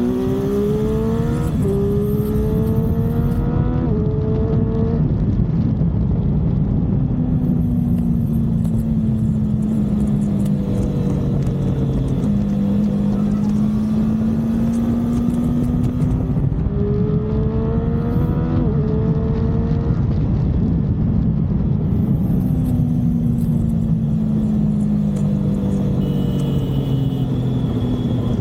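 Motorcycle engine accelerating through the gears: the revs climb and drop back with each upshift, in two runs near the start and a little past halfway, easing down and settling between them, over a steady rushing noise from riding at speed.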